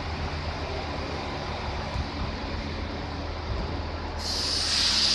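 Regional train standing at the platform with a steady low engine hum. About four seconds in, a loud hiss starts suddenly, typical of compressed air being released on the train.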